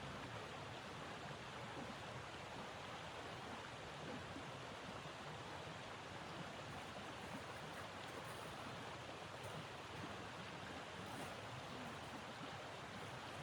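Steady rushing noise of blizzard wind, even and unbroken, with a few faint high ticks about halfway through and again later.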